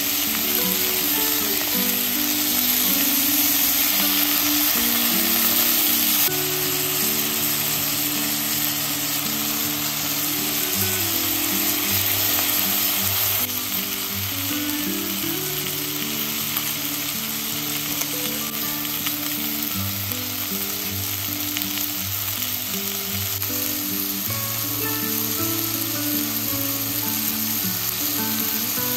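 Beef rolls with onion and carrot sizzling as they fry in an electric multicooker pot, a steady hiss throughout. Soft background music plays underneath.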